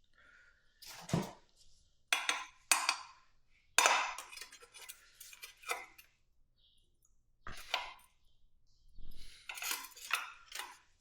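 Metal hand tools and parts clinking and clattering in a series of short, sharp knocks, the loudest about four seconds in and a quick run of clinks near the end.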